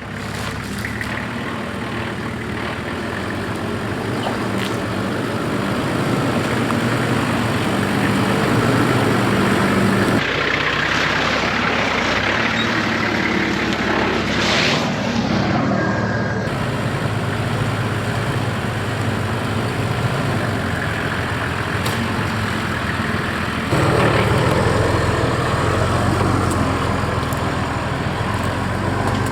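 Nissan Patrol GU four-wheel drive on the move: steady engine hum with tyre and road noise, changing abruptly a few times.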